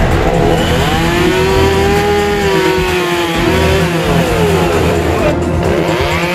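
A motor vehicle engine revving up and easing back down, its pitch rising for about two seconds and then falling, with music playing underneath.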